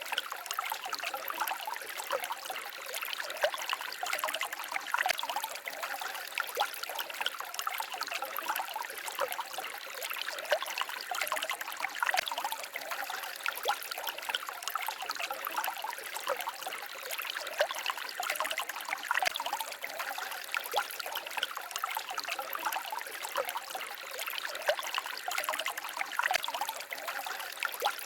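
Small stream babbling and trickling over rocks: a steady, busy splashing with many small quick drips and gurgles.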